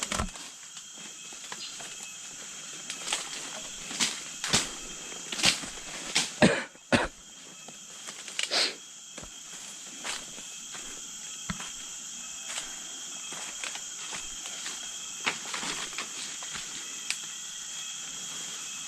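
Footsteps on an outdoor path: irregular knocks and scuffs, several heavier ones in the first half, then fewer and lighter. A steady high-pitched hiss runs underneath.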